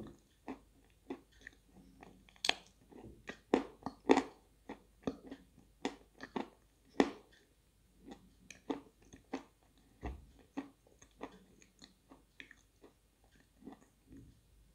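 Dry edible chalk being bitten and chewed close to a clip-on microphone: a steady run of crisp crunches, one or two a second, with softer chewing between them.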